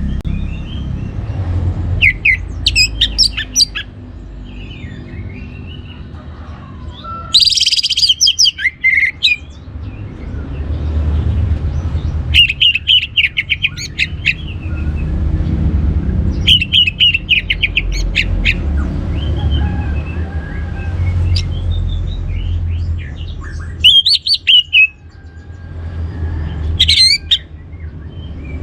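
Orange-headed thrush singing in short bursts of rapid, high chirping phrases, repeated every few seconds, over a steady low rumble.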